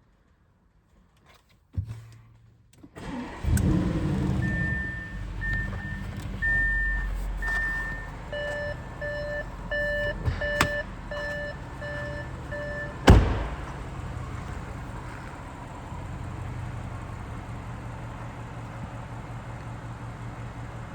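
2016 Audi S6's twin-turbo V8 cold-starting: it cranks and catches about three seconds in, runs at a loud raised cold idle, then settles to a steady, quieter idle. A car warning chime beeps repeatedly for several seconds after the start, and a sharp thump comes about 13 seconds in.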